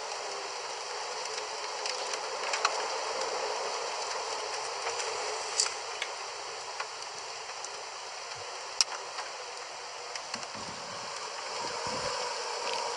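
Steady hiss of rain, with scattered sharp ticks of drops striking close by.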